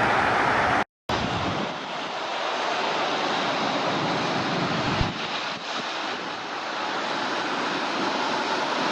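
Jet airliner engine noise, a steady rushing roar, broken by a brief drop to silence just before a second in and with one short knock about five seconds in.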